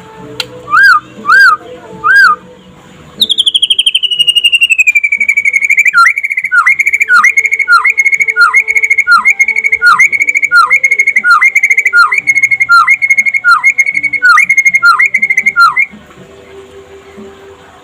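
White-rumped shama (murai batu) singing clear whistled notes. It gives three short notes, then one long falling whistle, then a fast series of repeated notes, about two a second, which stops about two seconds before the end.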